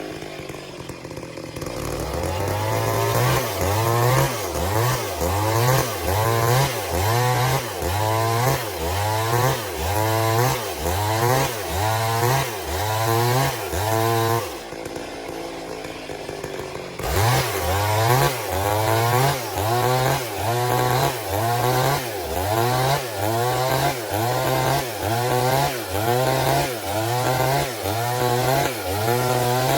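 Stihl two-stroke chainsaw cutting through a log, its engine speed rising and falling about once a second. About halfway through it eases to a lower, quieter running for a couple of seconds, then goes back to the same pulsing cut.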